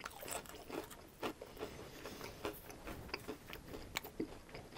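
Close-miked chewing of a mouthful of crispy fried food: soft irregular crunches and wet mouth clicks, several a second.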